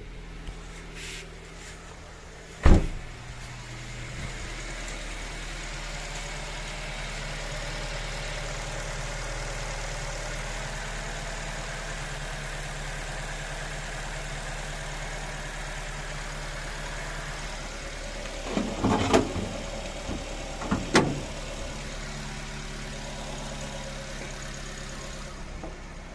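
Nissan HR15 four-cylinder engine idling steadily, with a sharp knock about three seconds in and a few more knocks near the end.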